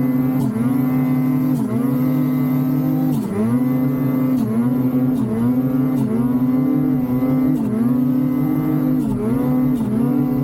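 Ski-Doo snowmobile's two-stroke engine running at high revs while riding. The pitch drops sharply and climbs back about once a second as the throttle is let off and pinned again.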